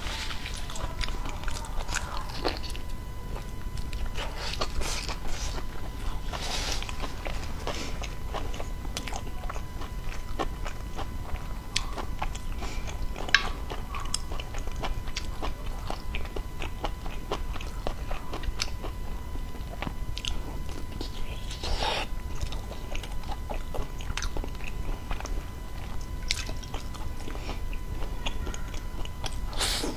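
Close-miked chewing and biting of a sauce-coated stuffed pork intestine, with many small mouth clicks and smacks throughout and a faint steady tone underneath.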